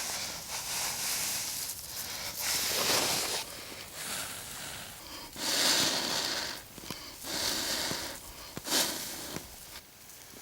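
A person blowing in repeated long breaths, about six in a row, into a bird's-nest tinder bundle of birch bark, dry grass and moss to fan a spark into flame.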